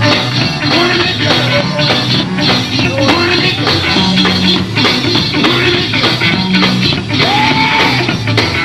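Live gospel band playing a fast shout vamp: steady drum beat and bass under electric guitar, with bits of singing over it.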